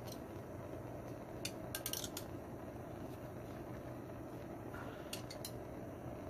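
A few light metallic clicks and clinks of metal parts and tools being handled, in two short clusters, over a steady low hum.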